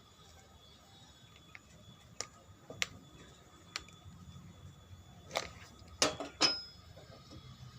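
Half a dozen separate sharp clicks and knocks of hard objects being handled, spaced irregularly and growing louder, with the loudest pair close together about six seconds in.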